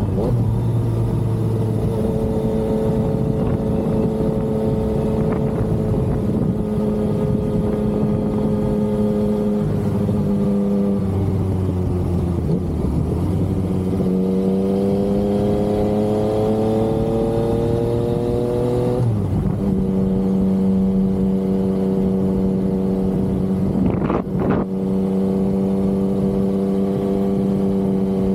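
Yamaha XSR900's three-cylinder engine under way. It runs steadily, drops lower about ten seconds in, then climbs in pitch for about five seconds under acceleration before a sudden drop at a gear change, and settles back to a steady cruise.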